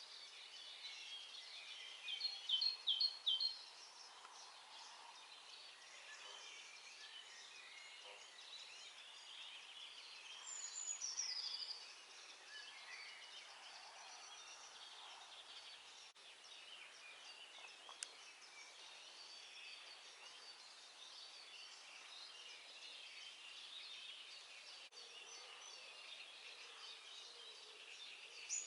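Dawn chorus of many songbirds, mostly distant, forming a steady background of chirps and trills. A closer bird sings louder phrases twice: a short run of strong notes a couple of seconds in, and a falling whistle ending in a quick trill about ten seconds in.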